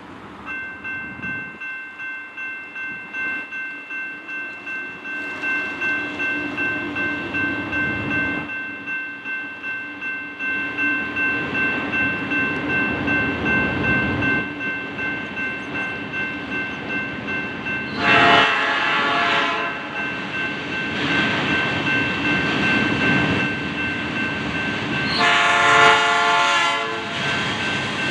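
A freight train approaching, its diesel locomotive getting louder while a bell rings about twice a second. The locomotive horn sounds twice, a short blast about two-thirds of the way in and a longer one near the end.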